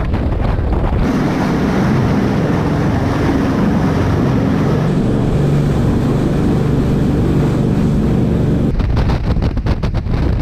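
Jet boat running at speed over the water, its engine a steady low rumble, with wind buffeting the microphone at the start and again near the end.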